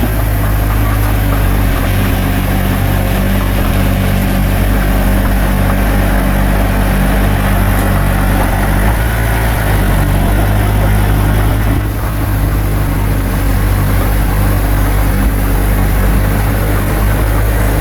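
Bulldozer's diesel engine running steadily, close and loud, with a slight dip about twelve seconds in.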